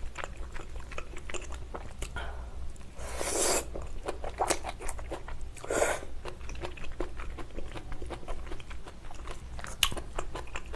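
Close-miked chewing of fish cake and napa cabbage from a spicy malatang soup, with many small wet mouth clicks. Two short slurps, about three and six seconds in.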